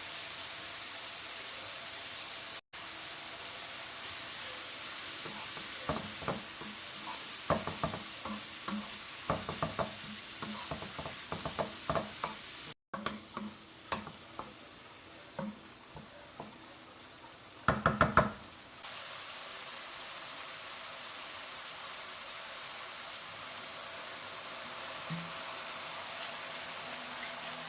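Food sizzling in a frying pan while it is stirred, with the utensil knocking and clicking against the pan. A quick run of louder knocks comes about two-thirds of the way in.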